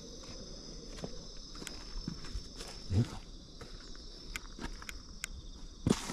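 Footsteps on an outdoor path with scattered light clicks, and two louder thumps about halfway and near the end. Insects chirr steadily in the background.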